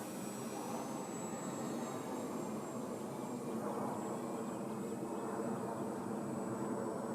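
Electric motor and propeller of a Multiplex FunCub RC plane in flight, a steady buzzing drone that holds an even pitch.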